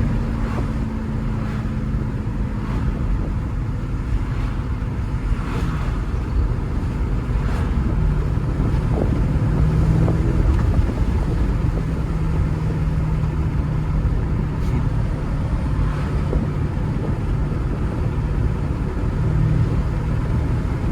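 A BMW being driven: steady engine hum over continuous road noise, the engine tone settling lower about a third of the way through.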